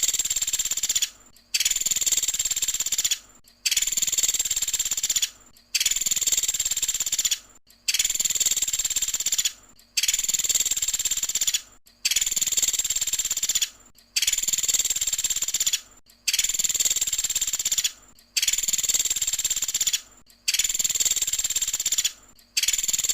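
Pelatuk sampit, a small woodpecker, giving its rapid-fire 'tembakan' calls over and over: long high trills of about two seconds each, with a short pause between, roughly one every two seconds.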